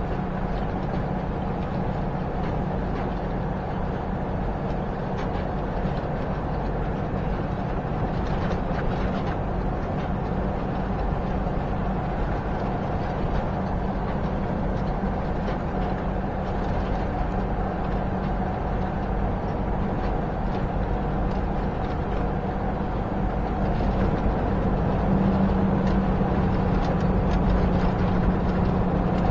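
Semi-truck's diesel engine and road noise heard from inside the cab while cruising: a steady low drone and rumble that gets a little louder in the last few seconds.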